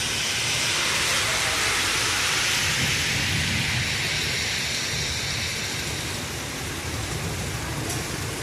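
Heavy rain falling in a steady hiss, loudest over the first few seconds and easing slightly after about five seconds.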